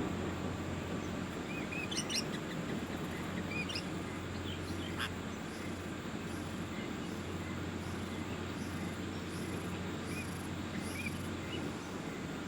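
Small birds chirping: short, scattered high chirps. A faint high pulsing repeats about twice a second through the middle, over steady low background noise.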